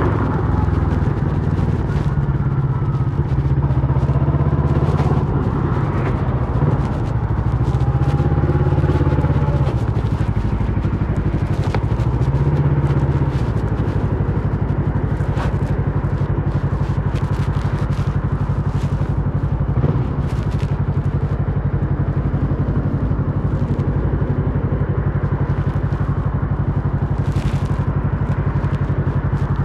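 Kawasaki Versys 650 parallel-twin engine running through a MIVV slip-on exhaust, its low note shifting up and down for the first half and then holding steady. A short knock about two-thirds of the way through.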